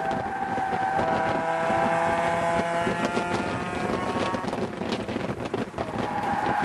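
First-generation Mazda Miata's four-cylinder engine running under load on a circuit, its note drifting slowly lower over the first few seconds and picking up again near the end, with wind buffeting the microphone.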